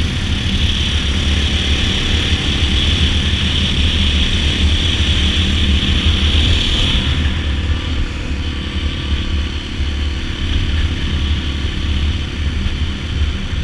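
Dirt bike engine running steadily on the move, with a low drone throughout; a higher-pitched part of the sound drops away about halfway through.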